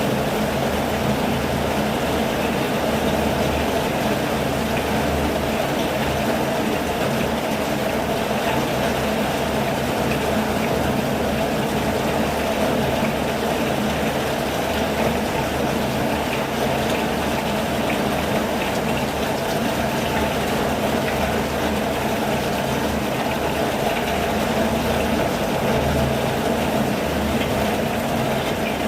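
Steady heavy rain falling without a break: an even hiss over a low rumble.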